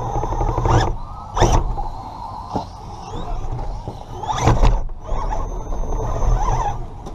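Redcat Gen7 Pro RC rock crawler's electric motor and geared drivetrain whirring, picked up by a camera mounted on the truck, with knocks and scrapes of the chassis and tyres on rocks; the loudest knocks come about a second and a half in and again about four and a half seconds in.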